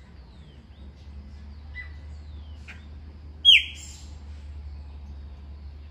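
Birds chirping: several short downward-sliding chirps, with one much louder call falling in pitch about three and a half seconds in, over a low steady hum.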